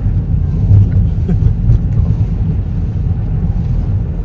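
Car driving slowly on a snow-covered road, heard from inside the cabin: a steady low rumble of tyres and engine.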